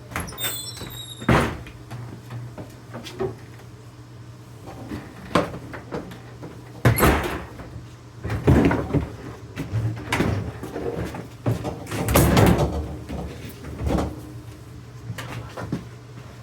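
A series of knocks, thuds and clattering bangs of doors and objects being handled, louder and longer through the middle, over a steady low hum. A brief high squeak comes right at the start.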